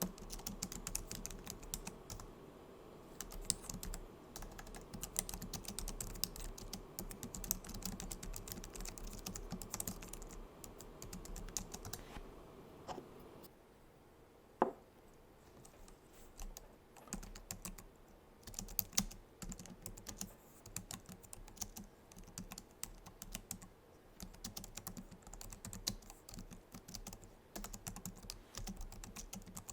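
Typing on a Logitech MX Keys keyboard: a steady patter of soft clicks from its low-profile scissor-switch keys. The typing pauses briefly about halfway through, with one sharper, louder key click in the gap.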